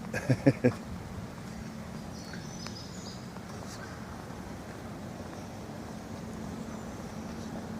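Steady outdoor background noise with a low steady hum, three short pitched sounds in the first second, and faint bird chirps about two and a half seconds in.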